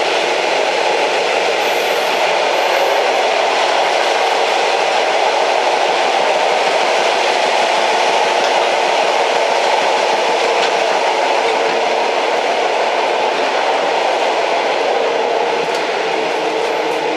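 Old train running steadily along the track: a loud, even, continuous noise with no breaks.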